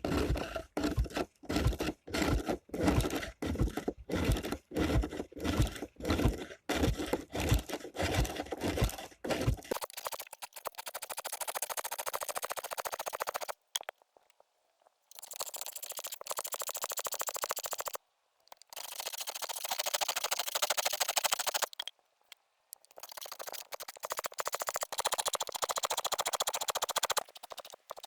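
Homemade wooden lathe turning a workpiece. For about ten seconds there are rhythmic strokes, roughly two a second. After that a turning tool scrapes and cuts the wood in stretches of several seconds with short pauses.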